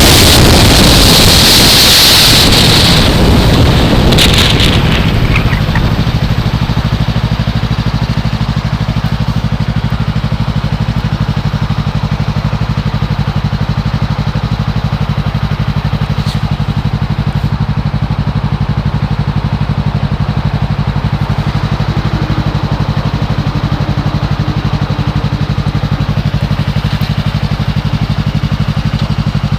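Wind rush on a helmet camera fades over the first five seconds or so as a 2015 Yamaha R3 slows. The motorcycle's 321 cc parallel-twin engine then idles steadily.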